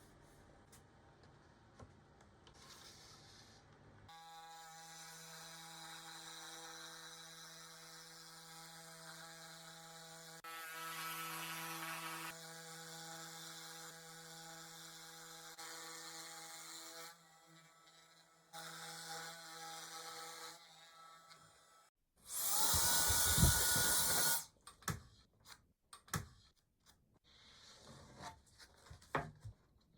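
A faint steady hum with several tones, then a handheld power tool runs loudly for about two seconds, its pitch rising as it spins up. A run of sharp clicks and knocks follows.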